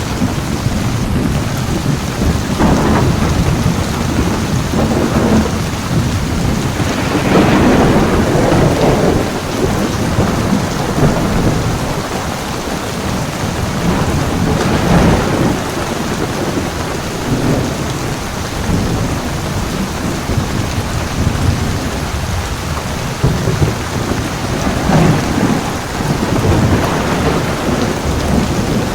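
Heavy rain falling steadily, with rolling thunder rumbling up several times; the loudest roll comes about a quarter of the way in.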